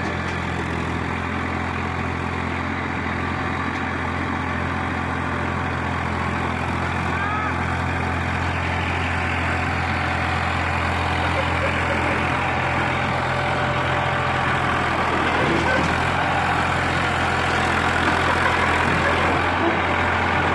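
Massey Ferguson tractor's diesel engine running steadily, slowly growing a little louder.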